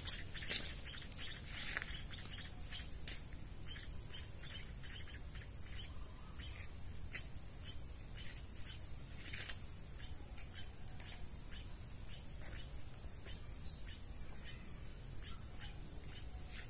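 Young emprit kaji (munia) chicks chirping: short, high chirps repeating a few times a second, over a faint steady high-pitched hiss.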